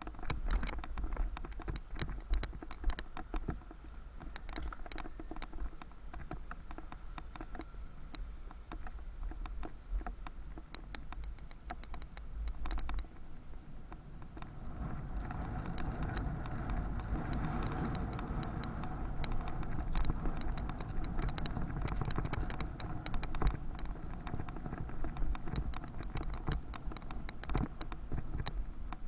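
Bicycle ride: dense rapid rattling and clicking over a steady low rumble, as the bike rolls over the road surface. A louder, fuller street noise swells in from about halfway.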